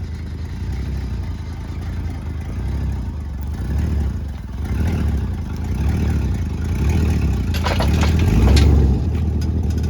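Chevrolet Silverado's 6.0 L V8 running as the truck is moved, its note swelling louder toward the end under throttle. A cluster of rattles or knocks comes in near the end.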